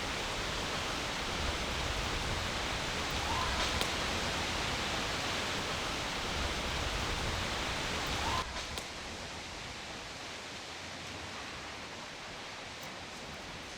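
Wind blowing through forest trees: a steady rushing noise that drops suddenly to a lower level about eight seconds in.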